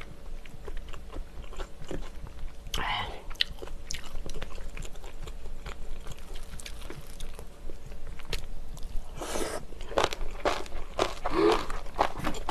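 Close-miked chewing and crunching of napa cabbage kimchi, with many small wet mouth clicks. Louder clusters of mouth sounds come about three seconds in and again near the end.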